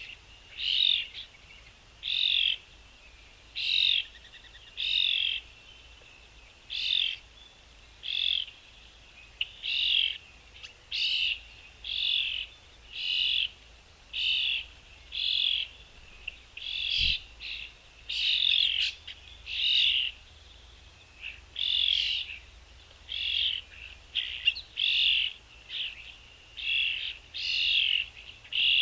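A bird calling over and over, one short, slightly warbled note repeated at a steady pace of about one a second.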